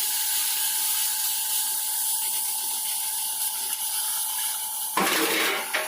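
A workshop tool running with a steady hiss. It gets louder for about the last second, then stops.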